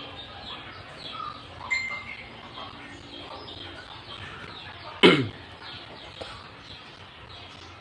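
Many small birds chirping in the background, with one short, loud sound that sweeps down in pitch about five seconds in.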